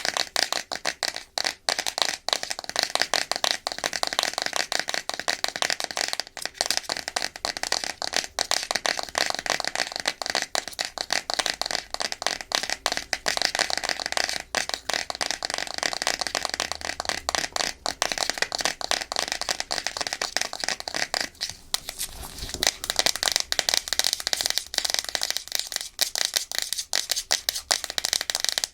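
Natural fingernails tapping fast and scratching on a hard plastic surface: a dense, rapid run of sharp clicks mixed with scraping, with a brief let-up about three quarters of the way through.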